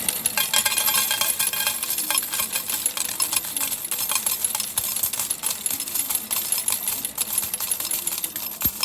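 Dense, continuous clattering of many metal arcade medals (tokens) spilling and clinking together in a medal game machine, cutting off abruptly near the end.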